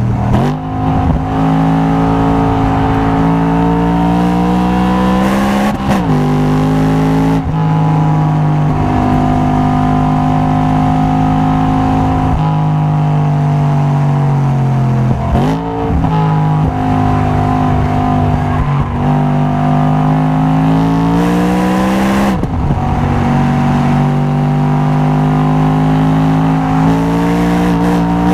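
Car engine and exhaust under hard acceleration on a track lap. The revs climb steadily in each gear and fall sharply at each gear change, about five times.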